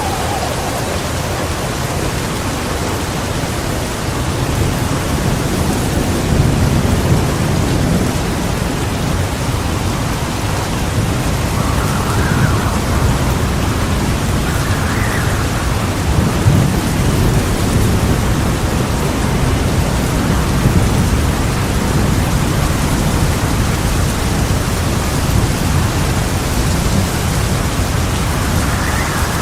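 Heavy rain falling steadily, with low rolling thunder rumbling underneath that builds a few seconds in and carries on through the rest.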